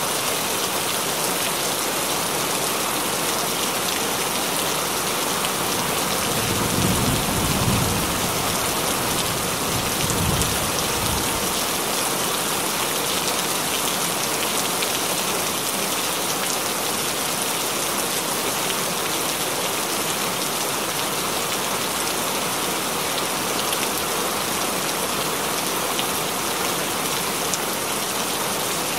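Steady rain falling, with a low rumble of thunder rolling in about a quarter of the way through and briefly swelling again a few seconds later.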